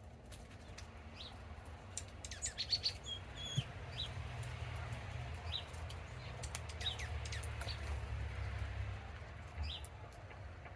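Small songbirds chirping and calling in short high notes, a quick run of chirps about two to three seconds in, then scattered single calls. A steady low rumble runs underneath through the middle.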